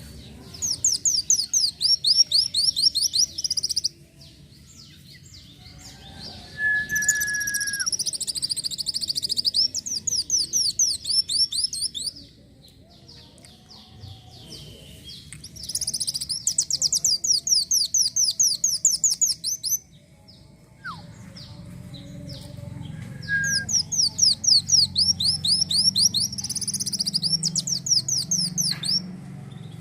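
Kolibri wulung (a sunbird) singing in long bouts of fast, high, rapidly repeated trilled notes, each bout lasting several seconds, with short pauses between bouts. A brief lower whistle comes now and then.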